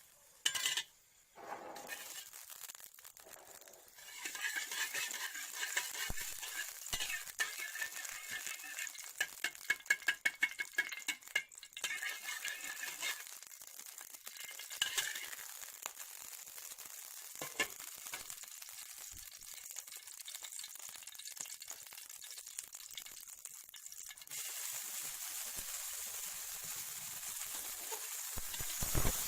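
Fat sizzling in a hot frying pan, with a sharp clank about half a second in. From about six to twelve seconds in come many quick clinks and scrapes of stirring in the pan. The sizzle runs steadily and gets a little louder near the end.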